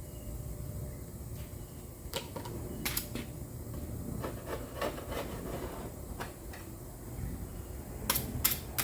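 Scattered light clicks and taps over a steady low hum, with two sharper knocks near the end.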